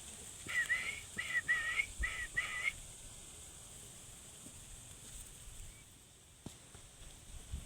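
A parrot whistling a quick run of short, dipping-and-rising notes over about two seconds, then stopping.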